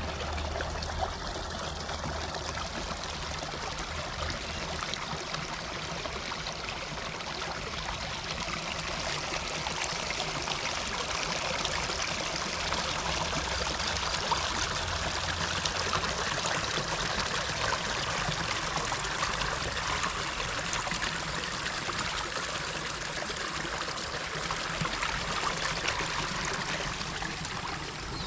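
Water running steadily, like a small stream or channel.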